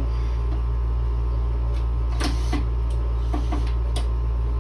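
Air conditioner running with a steady low hum and a faint steady whine, with a few light clicks about halfway through and near the end.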